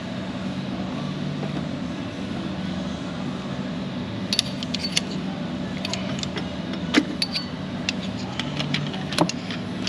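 Light metal clicks and clinks of hand tools and a bolt being handled while fitting an injector-cup installation tool to an engine head. They come irregularly from about four seconds in, with a sharper click near the middle and another near the end, over a steady low hum.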